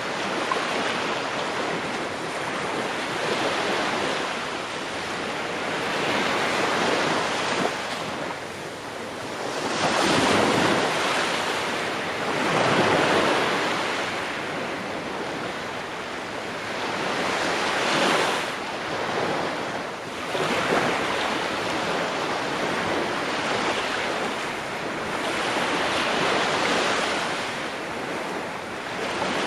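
Ocean waves breaking and washing on a shore, in repeated swells that rise and fall every few seconds, with wind.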